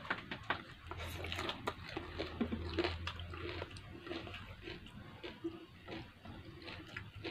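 Close-up chewing of a fried vegetable spring roll (lumpiang gulay), with many small wet smacks and clicks of the lips and tongue.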